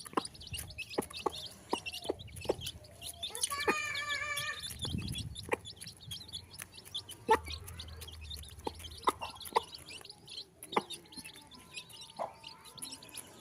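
Aseel chicks peeping in many short high chirps, with sharp clicks among them and one longer wavering call about three and a half seconds in.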